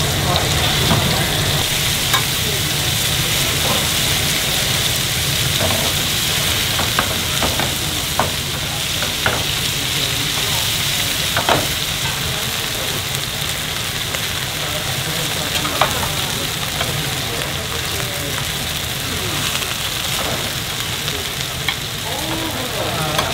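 Pieces of fish milt (shirako) sizzling steadily in hot oil in an iron frying pan. Short clicks and scrapes come now and then as the pieces are turned in the pan.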